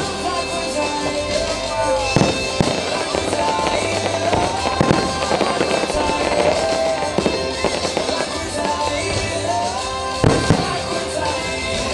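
Aerial fireworks bursting with sharp bangs over a pyromusical soundtrack: a couple of bangs about two seconds in, another near the middle, and a close pair about ten seconds in.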